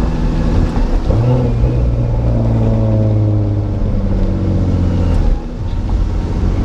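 Supercharged 4.0 L V6 of a 2005–2009 Ford Mustang accelerating, heard from inside the cabin: the engine note rises about a second in and holds steady. It dips briefly near the end, then picks up again.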